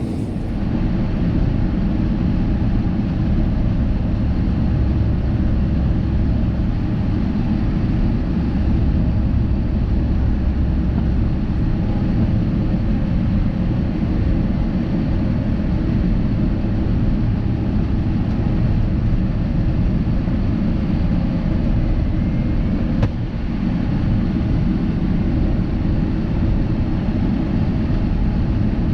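Steady cabin noise of an Airbus A350-900 in flight: a low, even rumble of the Rolls-Royce Trent XWB engines and airflow over the fuselage.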